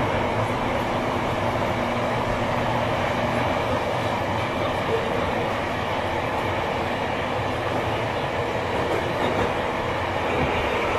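Interior running sound of a Tobu 9000 series chopper-control electric train between stations in a subway tunnel: a steady rail and tunnel noise with faint wheel clatter and an even, unchanging level.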